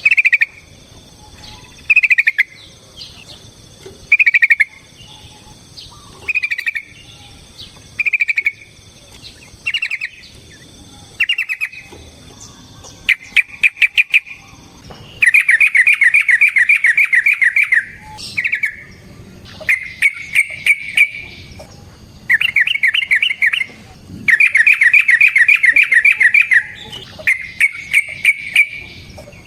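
Yellow-vented bulbul (trucukan) singing. It gives short chirped notes about every two seconds, then from about halfway switches to long, rapid trilled phrases, each lasting a second or more.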